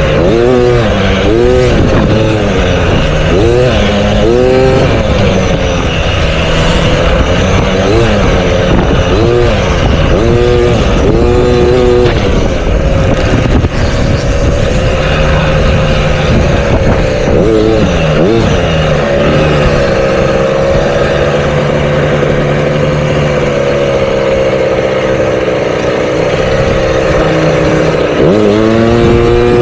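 Motocross bike engines running hard on a track. The pitch repeatedly climbs and drops as they rev and shift through most of the first half, holds steadier later on, and rises again near the end.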